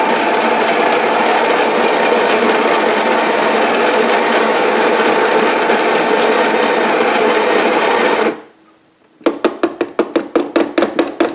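Coffee grinder grinding espresso beans with a steady, even whir, cutting off suddenly about eight seconds in. After a second's pause comes a rapid series of light knocks, about five a second, near the end.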